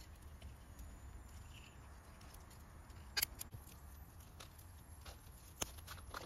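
Small campfire of damp wood and fresh shavings giving a few sparse, sharp crackles, the loudest about three seconds in and another near the end, over a faint low rumble.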